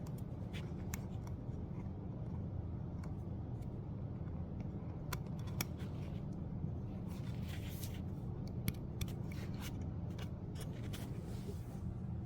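Scattered small clicks and short scrapes of plastic tubing and fittings being handled and pushed together, over a steady low hum.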